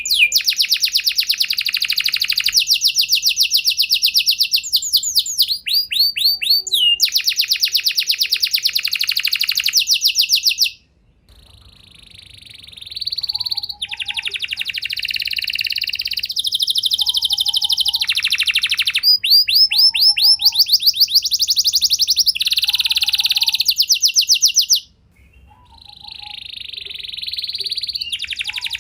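Domestic canary singing a long song of fast rolling trills of repeated high notes, breaking off briefly twice.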